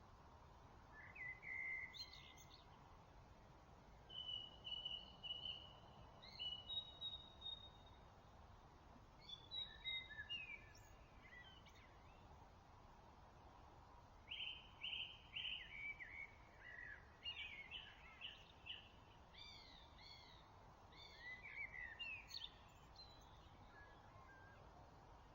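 Dawn chorus: songbirds singing faint phrases of clear, whistled and gliding notes, with short gaps between phrases and a denser stretch in the second half, over a steady background hiss.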